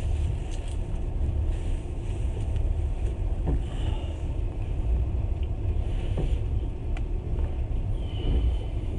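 Moving train's running noise: a steady low rumble with wind on the microphone, a few faint clicks, and two short high squeaks, one midway and one near the end.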